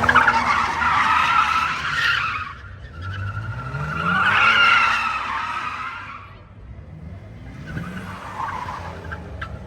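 A car drifting, its tyres squealing over the note of its engine in two long bursts, the second with the engine revving up about three seconds in. It fades away, and a fainter squeal comes near the end.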